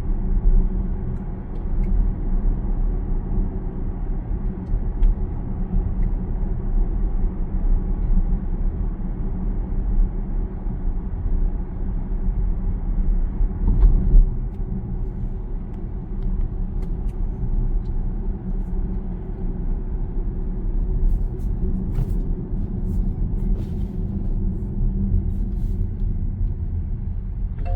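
Steady low road and tyre rumble inside the cabin of a Zeekr 7X electric car cruising at about 70 km/h.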